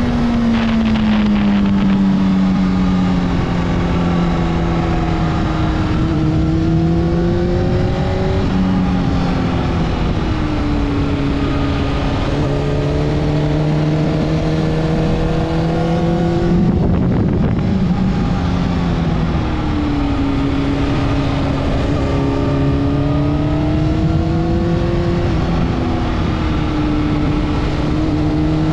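Honda CBR600RR's inline-four engine heard on board, its revs falling and rising several times as the bike is ridden through bends, over a steady rush of wind and road noise. The pitch breaks briefly about two-thirds of the way through.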